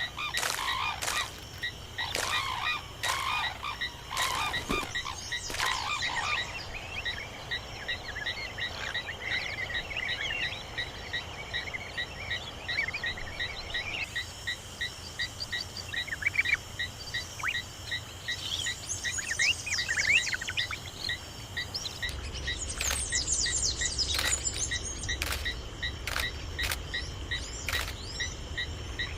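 Outdoor wildlife ambience: a steady, evenly pulsing trill, typical of frogs or insects, with scattered bird chirps and a few sharp clicks.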